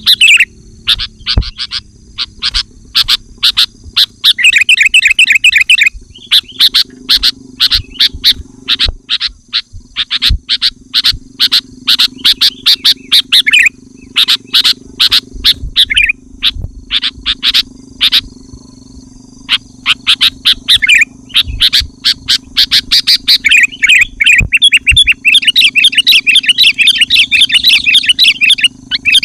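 Sooty-headed bulbul (kutilang) chattering loudly in fast, dense bursts of sharp notes, several seconds at a time with short pauses between, over a faint steady low hum. It is the bird's aggressive, rival-challenging song, as used to lure wild bulbuls.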